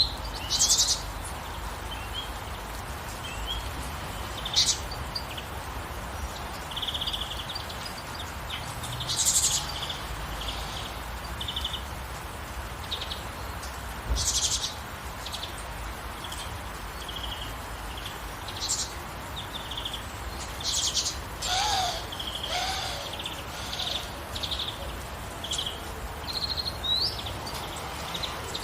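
Birds chirping and calling in short, scattered phrases over a steady hiss of gentle rain. About three-quarters of the way through there is a lower call that falls in pitch.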